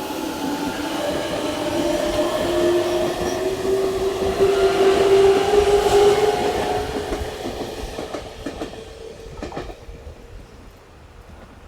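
Electric train pulling away, its motor whine slowly rising in pitch as it gathers speed. It grows louder, then fades, with a few clicks of wheels over rail joints near the end.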